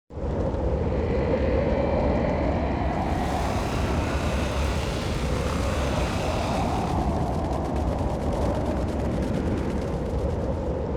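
A steady, loud rumbling roar that starts abruptly out of silence.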